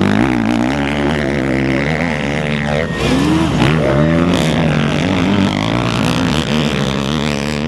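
Several motocross bike engines running and revving together, their pitch repeatedly rising and falling.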